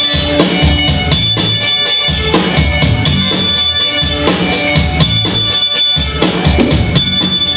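Live band playing an instrumental interlude, a drum kit keeping a steady beat of about four strokes a second under bass and sustained chords.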